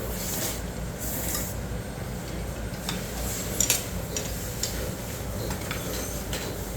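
Utensils clinking and scraping against a dish during eating, with scattered short clinks, the sharpest a pair about halfway through, over a steady low hum.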